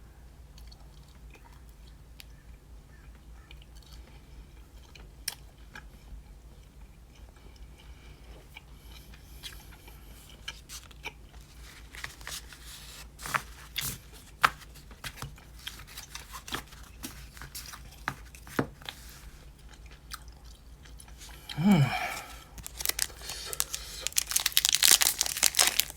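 A person chewing a large piece of tough beef jerky close to the microphone: quiet wet clicks and crunches scattered through the chewing. About 22 seconds in comes a short vocal sound that falls in pitch, and near the end a louder crinkling and tearing starts, typical of a foil booster-pack wrapper being handled.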